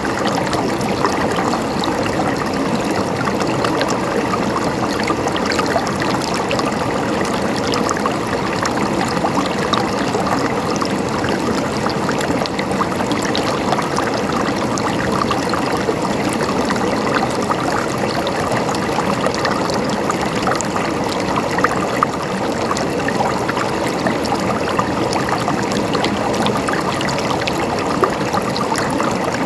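Water flowing in a stream, gurgling and trickling steadily with many small splashes.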